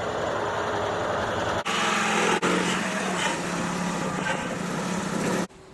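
A small engine running steadily, in short pieces that change abruptly twice, about one and a half and two and a half seconds in, and that stop suddenly just before the end.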